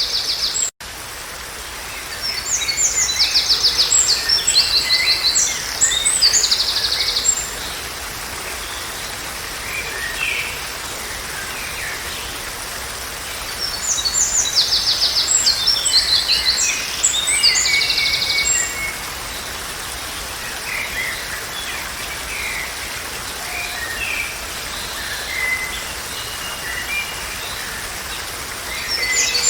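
Songbirds singing rapid, high trilled phrases in two main bouts, about 3 to 7 seconds in and again about 14 to 18 seconds in, with softer scattered chirps between, over a steady background hiss. The sound drops out for an instant just under a second in.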